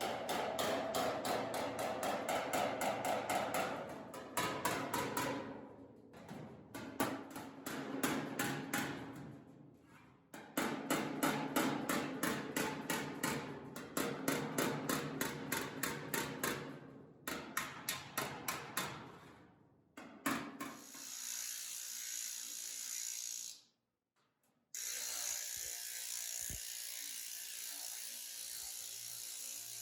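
Rapid, evenly spaced mechanical tapping in several runs of a few seconds each, broken by short pauses. About two-thirds of the way through it gives way to a steady hiss.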